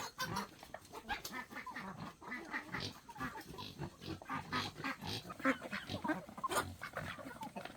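Farm animals making many short, irregular calls, mixed with clicks and rustles.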